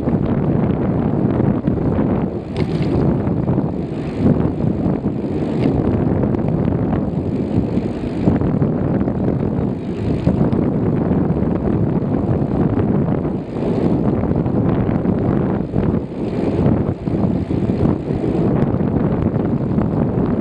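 Steady wind buffeting on the microphone of a bicycle in motion, a low rumble with faint rattles now and then.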